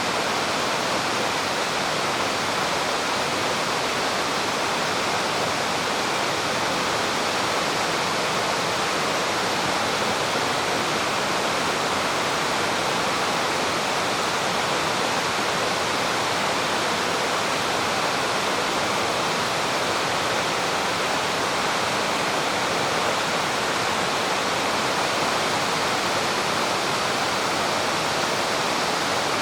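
Spring-fed mountain stream flowing, a steady, full sound of running water with no change.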